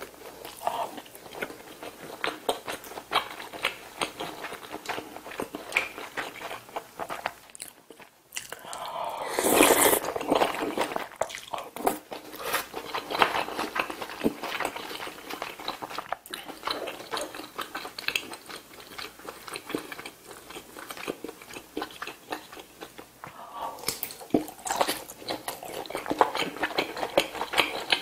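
Close-miked chewing of braised kimchi stew and rice: wet chewing with many small mouth clicks. About ten seconds in comes a brief louder rushing noise.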